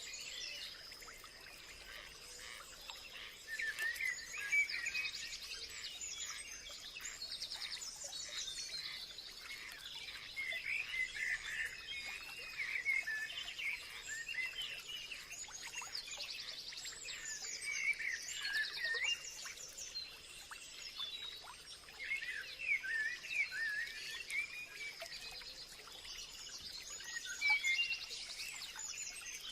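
Several birds singing and chirping at once, a busy mix of short warbles and trills, over a steady high insect drone.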